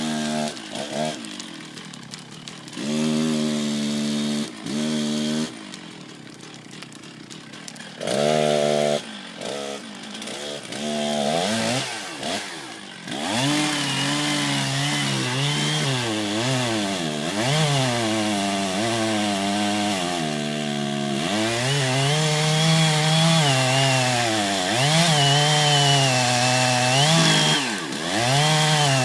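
Chainsaw engine revved in short separate bursts for the first dozen seconds, then running continuously with the throttle worked up and down so the pitch rises and falls.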